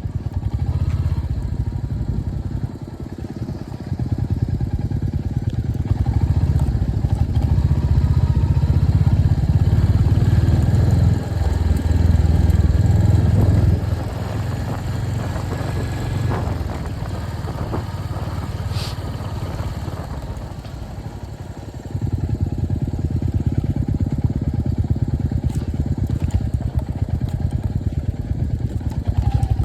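Royal Enfield Hunter 350's single-cylinder engine running as the motorcycle is ridden. It is louder for about ten seconds, quieter for about eight seconds, then louder again near the end.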